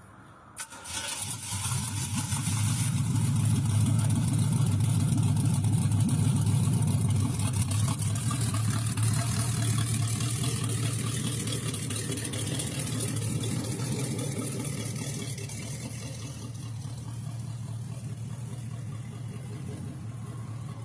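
A car engine starts about half a second in and settles into a steady idle, growing somewhat quieter over the last few seconds.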